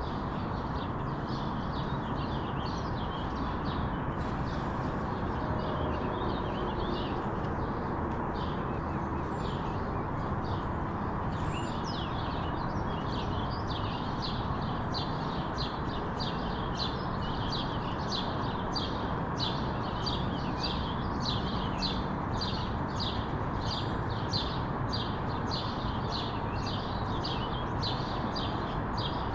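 Small songbirds chirping over a steady low background noise; from about twelve seconds in, one bird repeats a short chirp evenly, about twice a second.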